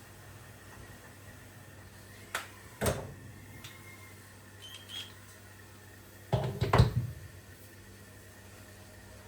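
Two sharp knocks between two and three seconds in, then a louder burst of clattering knocks near seven seconds, over a low steady hum.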